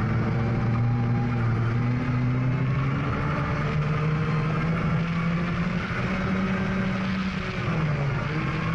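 Volga rally car's engine running hard on a gravel stage, its pitch climbing slowly through the middle and dropping near the end, over a steady hiss of tyres on gravel.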